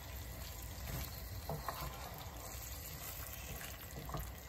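Chicken pieces sizzling in spice paste in a frying pan on high heat, with a wooden spatula stirring and scraping against the pan a few times.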